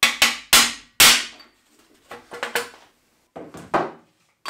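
Hammer blows on metal while dismantling a VW 1.9 diesel engine, a series of sharp strikes: four quick ones in the first second, then shorter groups about two seconds and three and a half seconds in.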